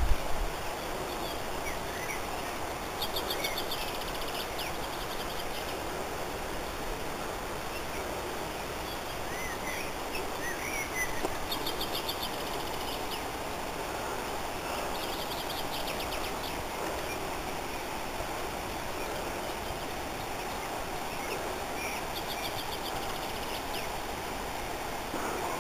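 Wild birds singing: short, rapid high trills repeating every few seconds, with a few scattered lower chirps, over a steady background hiss.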